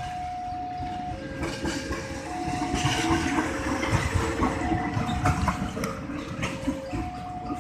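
Level-crossing warning alarm sounding a two-tone chime, a high and a low tone taking turns about once a second. A train passes through the middle of it, rumbling, with its wheels clicking over the rail joints; it is loudest a few seconds in.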